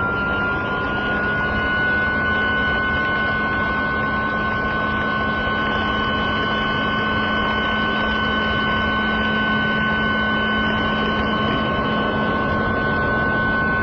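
Reesino cordless handheld wet/dry vacuum running: a steady motor whine over a rush of air, its pitch creeping up slightly in the first two seconds and then holding.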